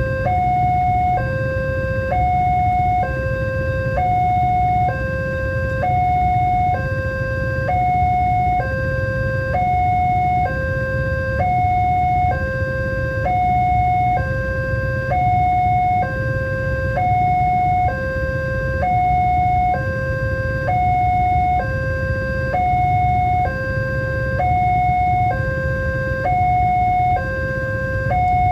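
Level-crossing warning alarm sounding steadily, alternating evenly between a higher and a lower tone about once a second, over a low rumble.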